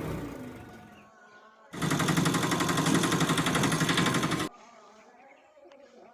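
Small electric motor of a DIY mini tractor model buzzing with a fast rattle, starting suddenly about two seconds in and cutting off sharply a few seconds later.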